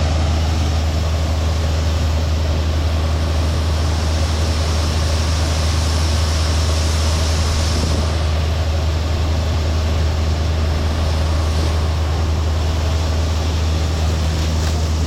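Combine harvester's diesel engine running steadily at close range, a deep, unbroken hum with machinery noise over it.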